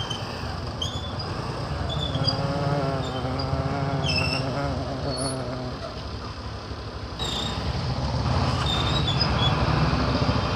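Motorcycle engine running at low speed with traffic around, with short high squeaks now and then; it gets louder about seven seconds in.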